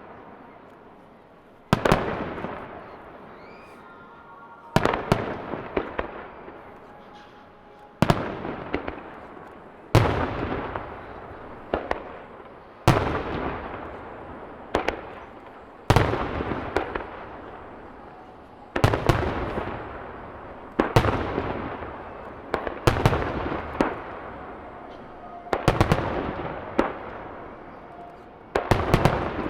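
Aerial firework shells bursting every two to three seconds. Each sharp bang trails off in a long echoing rumble, and several come as quick double or triple cracks.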